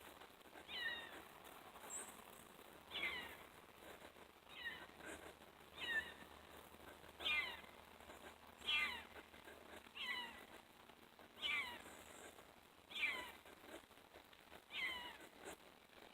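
An unseen animal crying: about ten short, mew-like calls that each fall in pitch, repeated roughly every second and a half. The crying sounds like an animal that is hurt.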